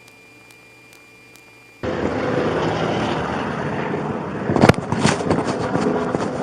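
A faint steady hum with soft regular ticks, then about two seconds in a sudden switch to a loud, steady rushing noise, with one sharp knock a little past halfway.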